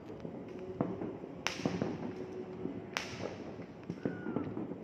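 Distant aerial firework shells bursting: two sharp bangs about a second and a half apart, each trailing off in an echo.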